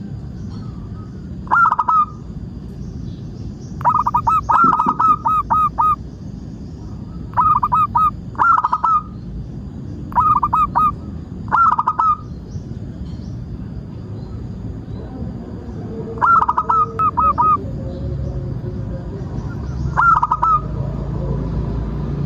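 Zebra dove cooing: about eight bursts of quick, staccato, pitched notes, each burst lasting half a second to a second and a half, with pauses of a few seconds between them.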